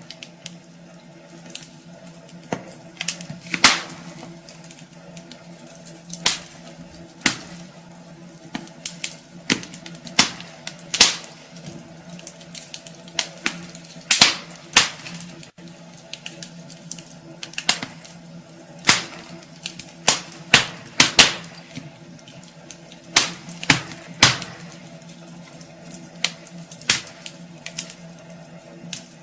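Wood fire burning in a fireplace, crackling with irregular sharp pops, some in quick clusters, over a steady low hum.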